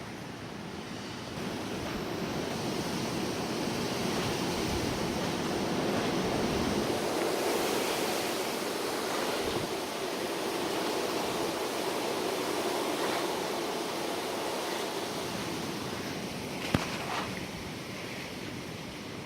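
Gusty wind rushing, swelling a second or two in, strongest around the middle, then easing off toward the end. A single sharp click comes near the end.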